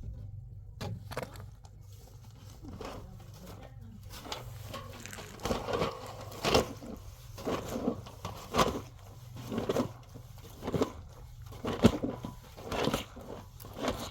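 A series of irregular crunching, crinkling noises, roughly one a second, growing louder about a third of the way in, over a steady low hum.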